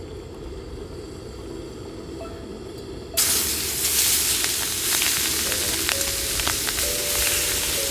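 A low rumble, then about three seconds in a loud sizzle starts suddenly as prawns go into hot oil on a tawa, and the frying hiss carries on steadily.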